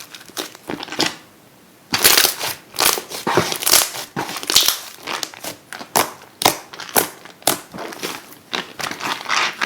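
Slime being squished and pressed, a quick run of crackling, popping squelches. A brief lull about a second in, then denser crackling from about two seconds in.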